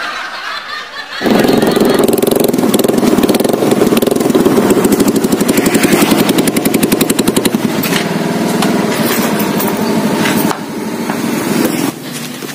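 Motorcycle engine running, coming in suddenly and loud about a second in with a fast even pulsing, then dropping in level near the end.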